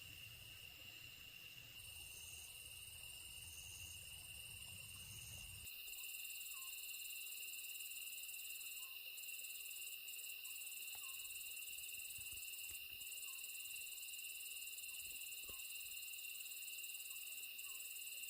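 A chorus of grass insects trilling steadily, with several continuous high trills at different pitches overlapping. A low rumble underneath stops about six seconds in, and a higher, brighter trill comes in at the same moment.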